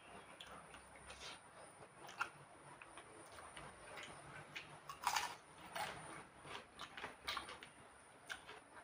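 Faint eating sounds: scattered soft clicks and smacks of chewing rice and pork, the loudest about five seconds in.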